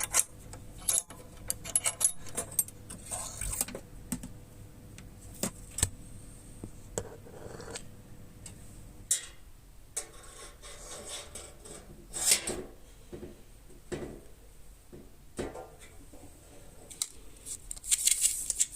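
Thin sheet metal and small metal parts being handled: irregular light metallic clinks, taps and short scrapes, with a longer scrape near the end.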